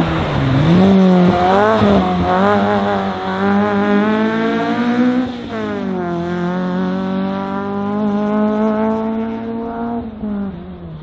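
Race car engine on a slalom run, revs swooping up and down over the first two seconds, then held high with a sudden drop in revs about halfway through, like a gear change or lift. The sound fades near the end.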